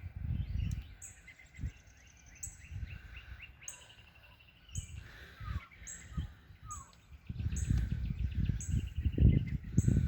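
A flock of small birds chirping and trilling over one another in quick, repeated calls. A low rumble on the microphone comes and goes and grows stronger in the last few seconds.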